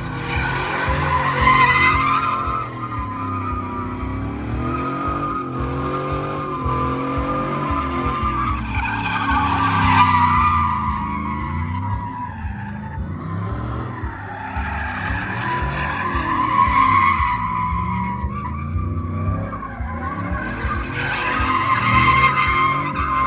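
Truck doing a burnout, its engine revving up and down while the tires squeal, the squeal swelling several times.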